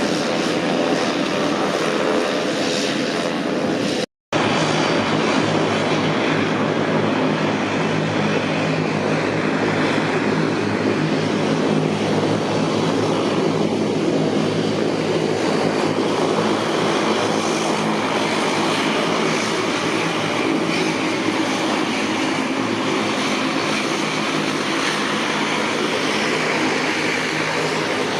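Bombardier Dash 8 Q300's twin Pratt & Whitney PW123 turboprop engines and propellers running with a steady drone of propeller tones. The sound cuts out for a split second about four seconds in.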